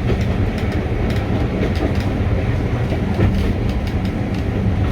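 Carriage of a steam-hauled train running along the track, heard from on board: a steady low rumble with irregular clicks and knocks from the wheels on the rails.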